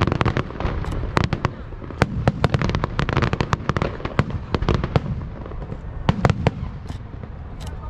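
Aerial fireworks bursting, a rapid irregular barrage of sharp bangs and crackles over a deep rumble, thinning out near the end.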